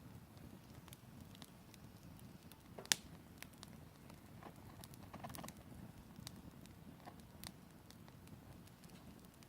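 Wood campfire crackling, with scattered small pops and one sharper pop about three seconds in.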